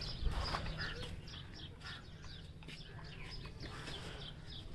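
Many small birds chirping at once, a busy chatter of short, quick high chirps.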